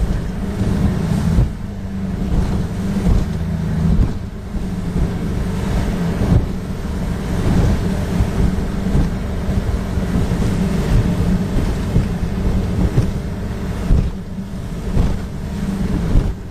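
Aluminum boat's engine running steadily at speed while the hull slaps and bangs through rough waves, with wind buffeting the microphone.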